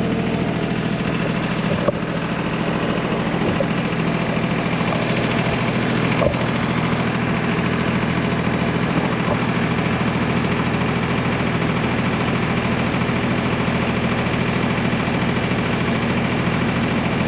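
1985 John Deere 1050's three-cylinder diesel engine idling steadily with a rapid clatter, plus a couple of light clicks.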